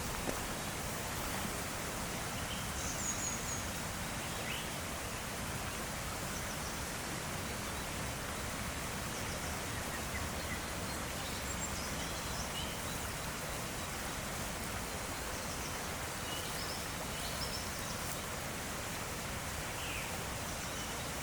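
Steady hiss of outdoor ambience, with faint short bird chirps here and there.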